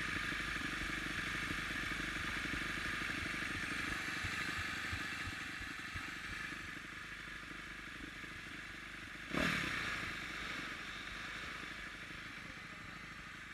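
2010 Kawasaki KX250F single-cylinder four-stroke dirt bike engine running steadily, fading slightly over time. About nine seconds in, a brief sudden sound drops quickly in pitch.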